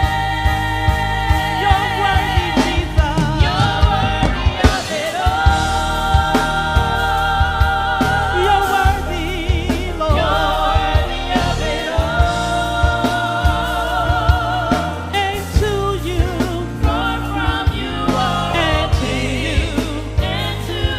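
Gospel worship song: singers hold long notes with vibrato over a live band, with drums keeping a steady beat under a sustained bass.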